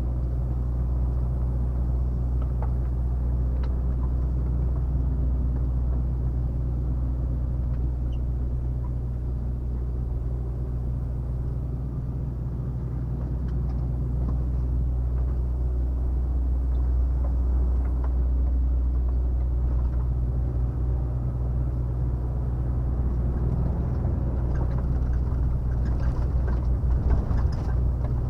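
Volvo FH 460 truck cruising, heard from inside the cab: the 13-litre inline-six diesel runs as a steady low drone under road and tyre noise. It dips slightly about halfway through and turns a little rougher near the end.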